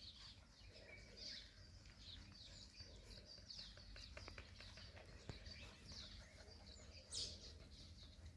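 Faint bird chirps, short high calls repeating every second or so, over a low background rumble, with a few soft clicks a little past the middle.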